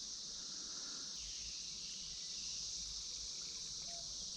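Chorus of Brood X periodical cicadas: a steady, high-pitched drone with no breaks.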